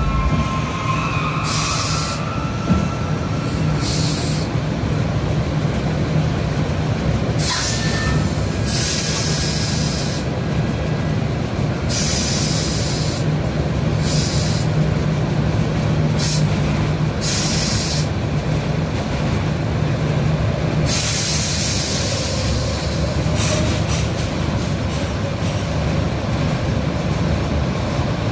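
Heavy machinery running steadily with a low rumble, broken by repeated irregular bursts of hiss.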